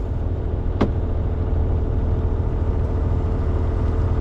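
Sailboat's inboard engine running steadily under way, a constant low hum, with a single short click about a second in.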